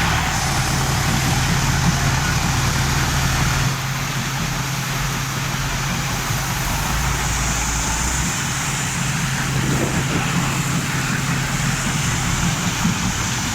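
Mahindra 475 DI tractor's diesel engine running steadily, a little quieter from about four seconds in.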